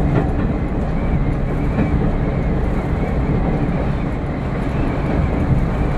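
Diesel train's engine running steadily in third gear as the train moves along the line, heard from inside the driver's cab as a constant low rumble.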